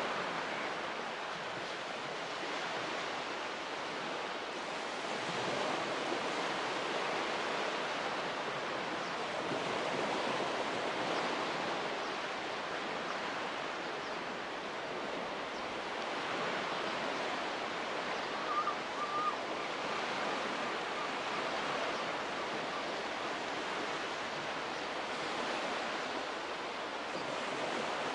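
Ocean surf washing steadily onto a beach, swelling and easing slowly as waves come in. Two short faint chirps sound about two-thirds of the way through.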